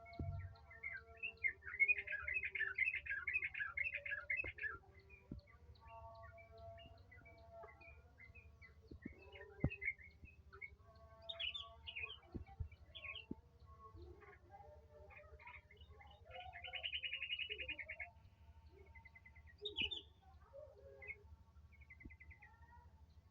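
Songbird singing in rapid twittering trills, loudest from about two to five seconds in and again around the seventeen-second mark, with scattered short chirps in between. A low steady hum runs underneath.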